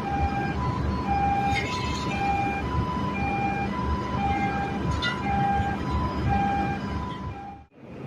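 Two-tone warning alarm sounding a high-low pattern, about one pair of notes a second, over a steady low machinery rumble. The sound cuts out briefly near the end.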